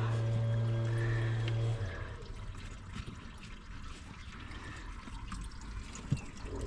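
A steady machine hum stops about two seconds in, leaving a quieter trickling hiss with a single knock near the end; just after, the hum starts again, rising in pitch as it spins up.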